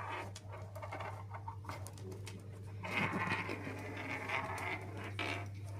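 Pet conure making short chattering and scratching sounds, with light clicks, over a steady low hum.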